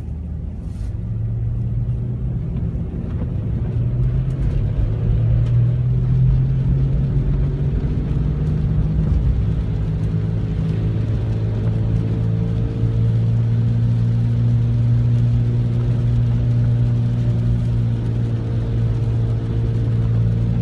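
Car's bad right-side wheel hub bearing droning as the car is driven: a low, steady hum over the road noise that rises a little in pitch and loudness over the first few seconds, then holds steady. The drone is the sign of a worn, failing hub bearing.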